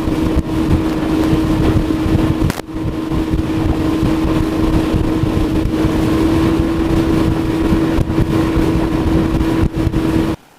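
Outboard motor of a small skiff running at a steady cruising speed, with a steady droning tone, and wind buffeting the microphone. It cuts off abruptly just before the end.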